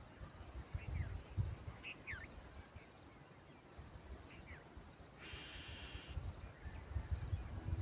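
Wild birds calling: a few short, falling chirps, then one harsh, nasal call lasting about a second, roughly five seconds in. A low, uneven rumble runs underneath.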